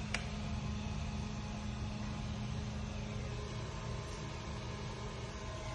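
Steady electrical machine hum with a low rumble and a constant tone: the repaired Hitachi industrial unit running under power on its 380-volt test supply. A single short click sounds just after the start.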